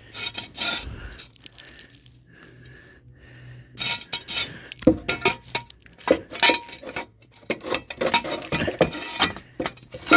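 Steel jack stand clanking and clinking as it is set in place and raised, with irregular metallic clatter from about four seconds in.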